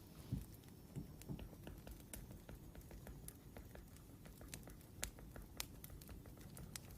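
Wood fire crackling: irregular sharp pops and snaps over a low rumble, with a louder pop about half a second in.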